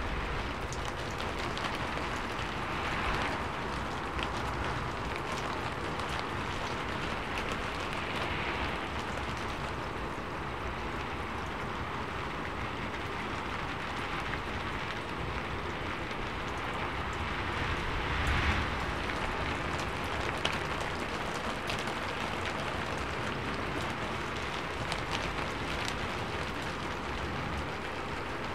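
Steady rain drumming on a sheet-metal roof, a dense hiss of drops with individual ticks on the metal. It swells a few times, most clearly about two-thirds of the way in.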